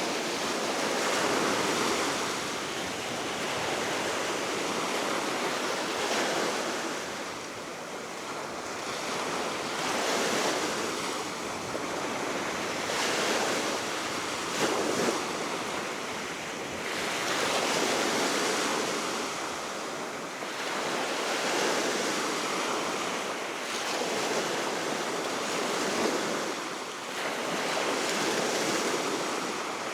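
Baltic Sea waves washing onto the shore below a cliff, swelling and fading about every four seconds, under a steady wind that also buffets the microphone. A brief louder moment comes about halfway through.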